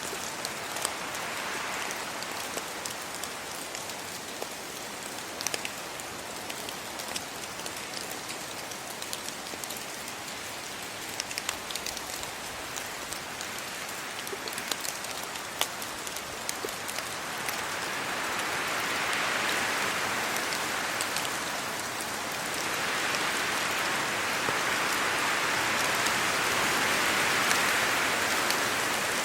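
Steady rain falling on trees and a road, with sharp ticks of single drops landing close by. The rain grows louder twice in the second half.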